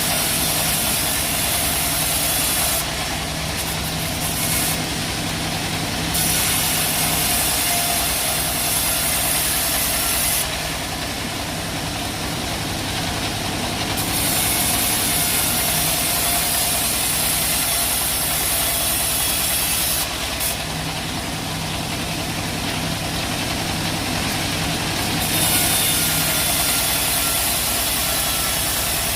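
Bandsaw sawmill machinery running steadily with an engine-like hum. A high hiss over the hum drops out for a few seconds at a time, three times.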